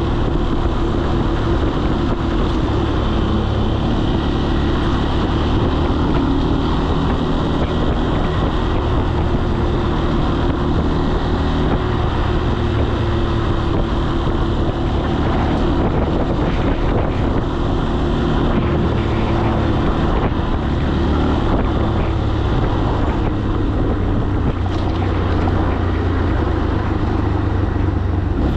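Falat 200 cc single-cylinder motorcycle engine running steadily under way, with wind noise on the helmet-camera microphone.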